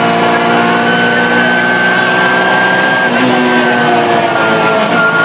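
Rally car engine heard from inside the cabin under load, its note climbing slowly for about three seconds, then dropping and settling lower before starting to rise again near the end.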